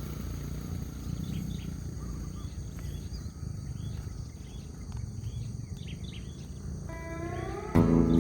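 Small birds chirping, short quick calls repeating over a steady low outdoor rumble. Near the end a rising tone comes in, and then guitar music starts loudly.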